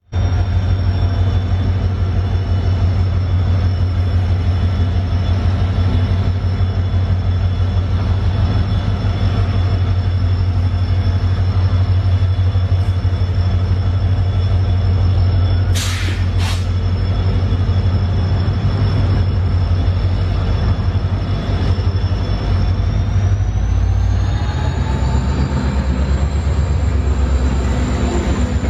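Passenger train pulling out of a station, with a heavy steady rumble and a steady high whine. Two short sharp bursts come just after the midpoint. Near the end the whine rises in pitch and holds higher as the train picks up speed.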